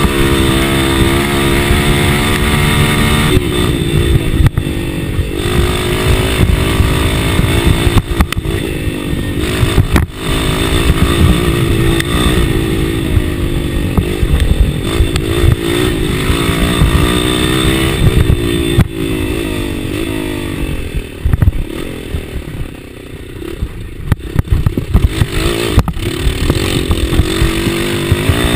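Enduro dirt bike engine revving up and down over and over as it is ridden hard over rough trail, with sharp knocks and rattles from the bumps. A few seconds past the middle the engine drops to a quieter, lower note, then picks up again.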